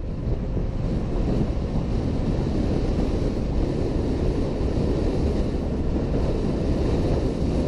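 Steady wind rushing over a helmet camera's microphone on a moving Honda PCX 125 scooter, with road and traffic noise underneath.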